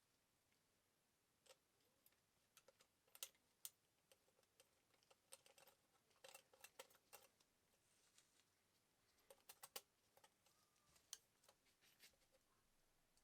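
Faint, irregular light clicks and taps, some in quick clusters of two or three, the loudest a little over three seconds in and near ten seconds in.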